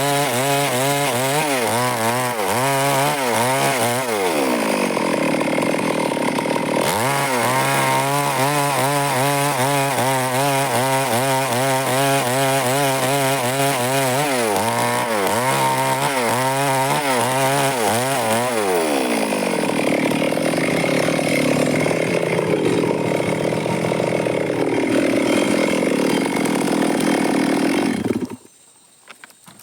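Stihl chainsaw running at high speed while cutting wood, its engine note rising and falling repeatedly as it works through the cut. The sound cuts off suddenly near the end.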